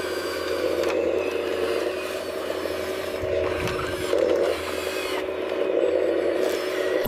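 Radio-controlled model construction machine's small motor and gears whirring steadily, with some scraping and a few light clicks; it grows louder briefly about four seconds in.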